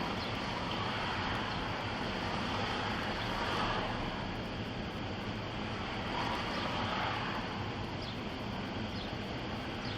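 Steady road traffic noise with a little wind on the microphone, and vehicles passing, one about three and a half seconds in and another about seven seconds in.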